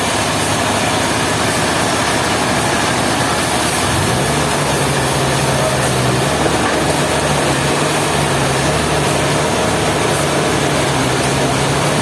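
A heavy engine running steadily, its low hum picking up slightly about four seconds in and then holding, over a constant loud machine noise.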